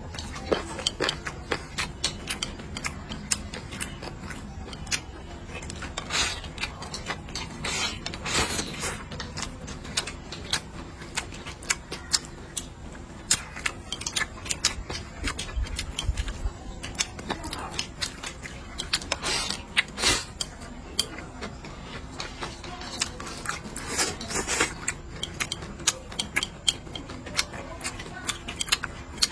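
Someone eating: irregular small clicks and crackles of chewing and of utensils against dishes, continuing throughout.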